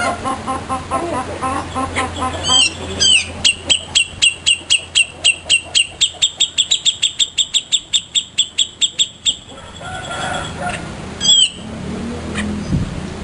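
Cica jenggot songbird singing: a down-slurred whistle, then a fast run of about thirty-five repeated high notes that speed up over some six seconds, and another down-slurred whistle near the end, over softer, lower calls.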